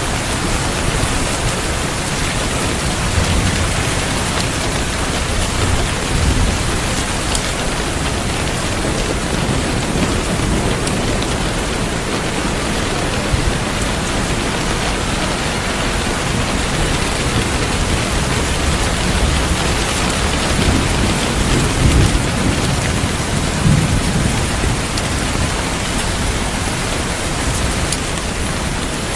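Steady heavy rain, with low thunder rumbling now and then beneath it.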